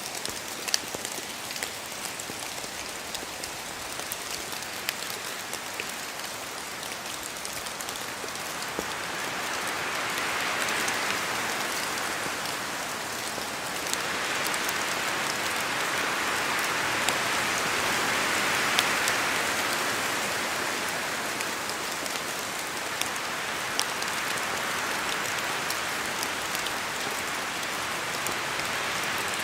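Steady rain in a forest, with many single drops falling from the trees and tapping sharply on leaves. Wind swells through the trees twice, about a third of the way in and again past the middle, then eases.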